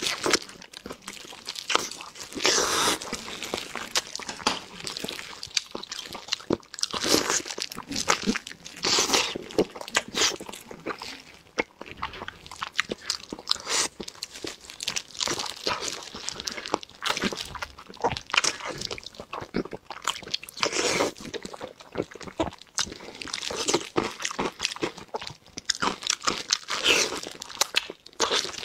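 Close-miked eating sounds: a person biting into and chewing sauce-coated meat, with irregular wet smacks and clicks of the mouth.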